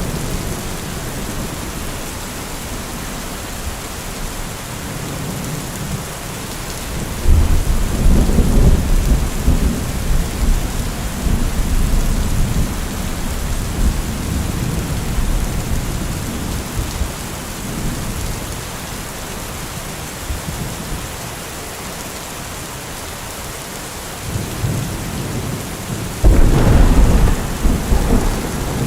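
Steady rain with two rolls of thunder. The first breaks suddenly about 7 seconds in and rumbles away over several seconds. The second, louder one breaks near the end.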